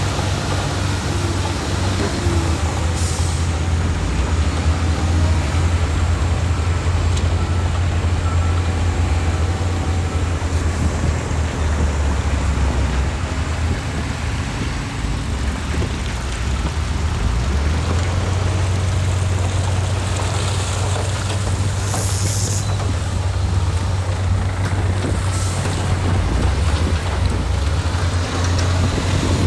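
Heavy diesel engine of construction machinery running steadily with a deep drone. Short hisses of air are heard about three seconds in and twice near the end, typical of a dump truck's air brakes.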